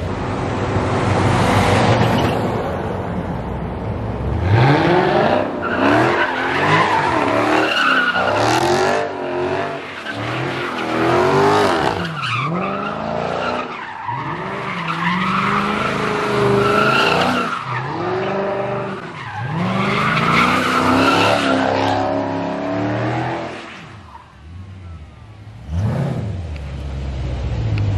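Dodge Challenger Scat Pack's 392 Hemi V8 revving up and down over and over while its rear tyres spin and squeal through donuts. Each rise in pitch is the throttle being pushed down and each fall is it being let off, feathered to keep the car spinning. Near the end the sound briefly drops away, then comes back with a short burst of revs.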